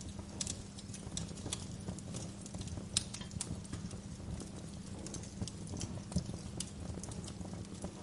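Wood fire crackling in a fireplace: irregular sharp snaps and pops over a steady low rumble of the burning logs, with the loudest snaps about three seconds in and again about six seconds in.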